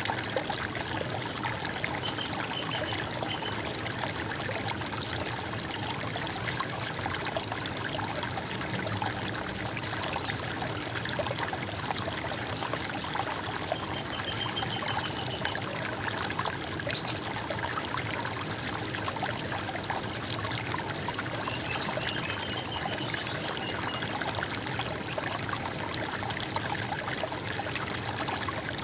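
Running water splashing and trickling steadily, with a bird giving a few brief high trills now and then.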